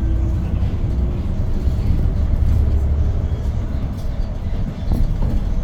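A 2022 Hyundai New Super Aerocity city bus under way, its C6AF Q290 CNG engine running with a loud low rumble and road noise, heard inside the cabin. The level eases briefly about five seconds in.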